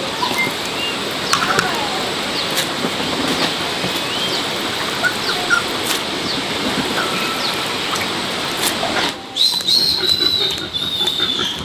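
Small birds chirping over a steady rushing hiss. The hiss drops off about nine seconds in, and a longer held whistling call follows.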